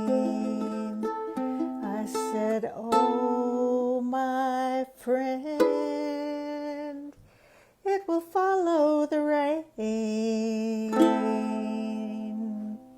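Acoustic guitar playing the instrumental ending of a folk song, picked notes and chords ringing, with some sliding notes partway through; the final chord is cut off shortly before the end.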